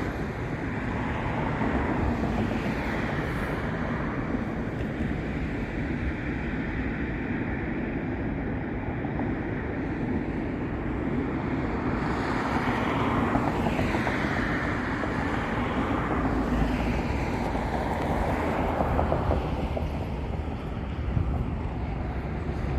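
Road traffic noise: a steady wash of passing cars, with vehicles passing closer and louder about halfway through.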